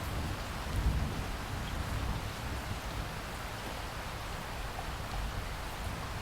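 Steady rain falling in a rainforest, with a low rumble of thunder swelling about a second in and fading over the next few seconds.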